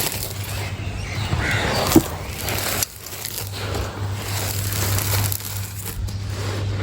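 Dry, dusty crumbling chunks being crushed by hand: a continuous gritty crunching and crumbling, with a sharp crack about two seconds in.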